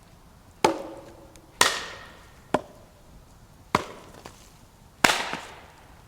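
Wood being chopped: five sharp blows about a second apart, several ringing briefly after the strike, the third one lighter and shorter.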